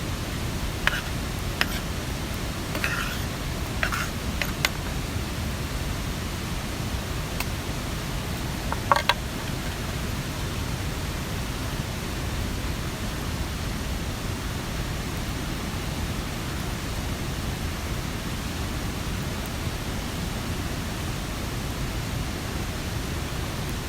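Steady wash of rain and a running mountain stream, with a few light clicks or taps in the first five seconds and a sharper tap about nine seconds in.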